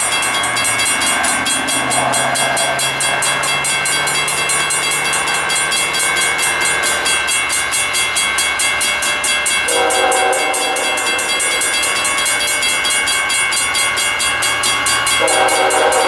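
Approaching diesel freight locomotives running with a steady low drone, and the air horn sounding briefly about ten seconds in, then again near the end.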